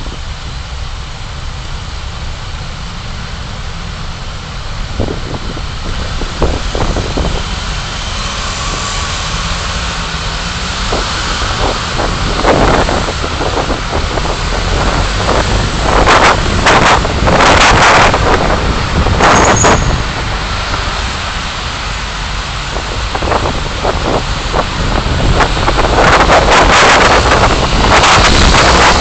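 Road and engine noise of a moving car picked up by a dashcam: a steady low rumble with rushing noise that grows louder in the second half, with several loud bursts of rushing noise, such as passing traffic.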